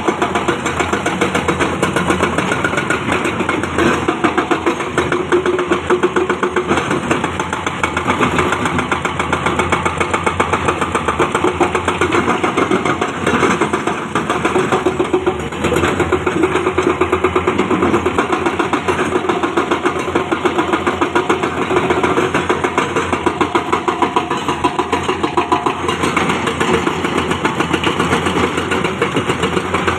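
Diesel engine of heavy earthmoving machinery running with a fast, even pulse, its loudness swelling and easing a little.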